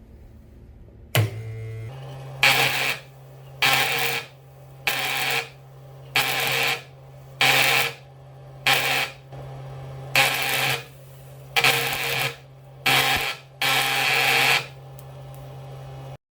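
Welding machine switching on with a steady electrical hum, then about ten short crackling welding arcs struck one after another, roughly one every second and a quarter, as the repaired machine is tested.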